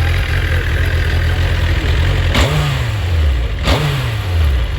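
Suzuki GSX-R1000 inline-four engine idling, then blipped twice, about two and three and a half seconds in, each rev falling quickly back to idle.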